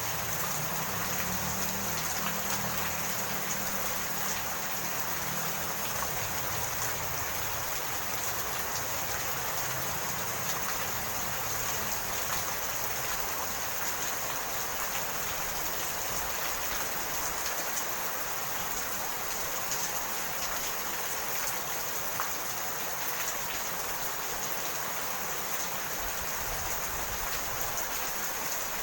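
Steady rain falling, a constant hiss with scattered faint drop ticks. A low rumble underneath fades out in the first few seconds.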